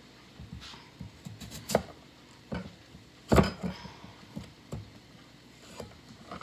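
Irregular clinks and knocks of kitchen utensils and cookware being handled, the loudest a little over three seconds in.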